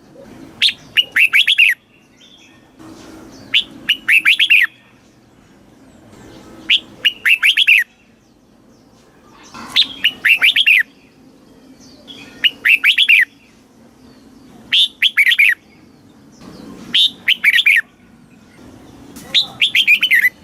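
Red-whiskered bulbul singing: short, loud phrases of a few quick, swooping whistled notes, repeated about every two to three seconds, eight times. This is the southern-style master song played to caged bulbuls to excite them and to teach young birds.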